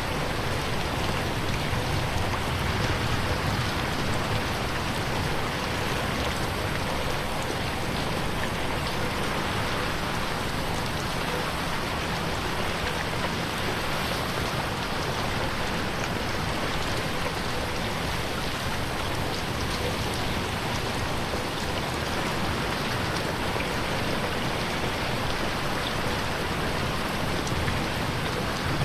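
Steady rain falling on a window pane, a dense even patter with no let-up.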